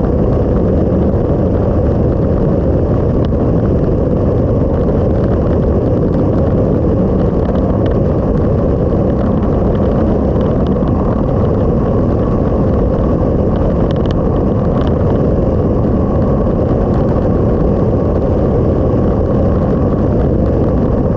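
Steady roar of wind and engine from a motorcycle being ridden, heard from a camera on the bike, with no change in pace.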